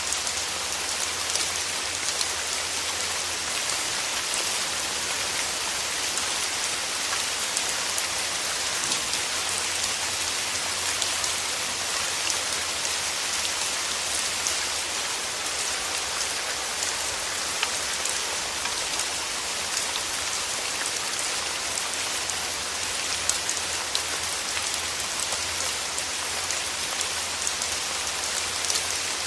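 Steady rain: a dense, even patter with many small individual drop ticks scattered through it.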